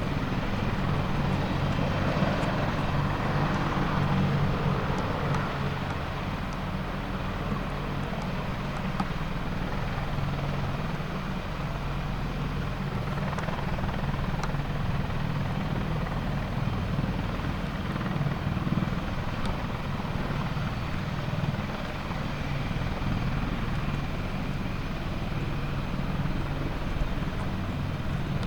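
AH-64D Apache attack helicopter running, its rotors and twin turboshaft engines making a steady low drone at an even level.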